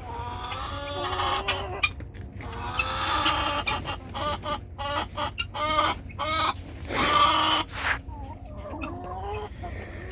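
Chicken clucking repeatedly in short calls, with a brief loud noisy burst about seven seconds in.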